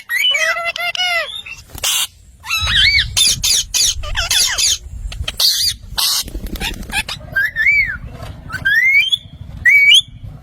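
Pet parrot calling: a string of short whistled notes that glide up and down, broken by brief harsh squawks.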